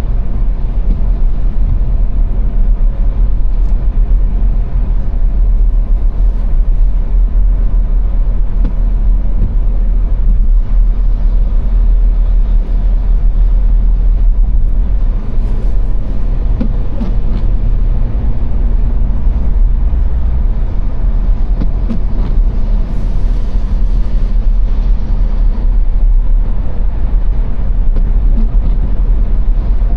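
Car driving at motorway speed: a loud, steady low rumble of road, tyre and engine noise.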